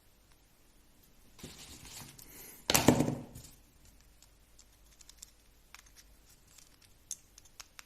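Handling noises from greasing and fitting small parts of an RC car differential by hand: a soft rustling hiss, a brief louder rub about three seconds in, then light clicks and taps of small parts.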